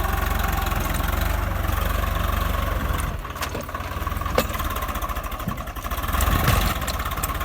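Swaraj 855 tractor's diesel engine running as it works to pull a stone out of the ground. Its steady low throb changes and eases about three seconds in, with a few sharp knocks later.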